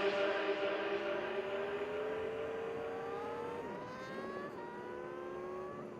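Motorcycle engine accelerating, its pitch climbing and then dropping sharply twice at upshifts, growing fainter.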